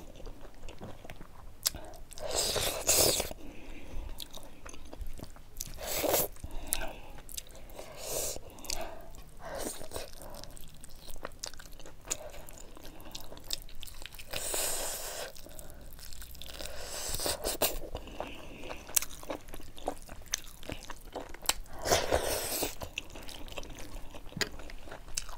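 Close-miked chewing of a mouthful of rice and buffalo meat curry eaten by hand, with wet mouth clicks and irregular louder bursts of chewing every few seconds.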